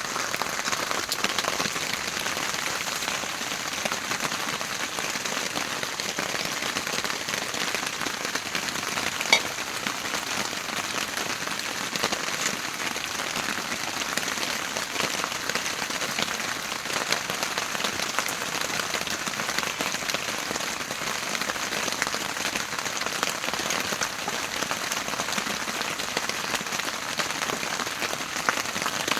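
Heavy rain falling steadily, with many fine drop ticks, and one sharper click about nine seconds in.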